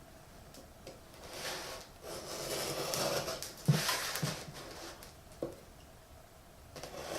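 A shipping box being handled and opened: the packaging rustles and scrapes, with a sharp knock about halfway through, a second one just after and a light click later.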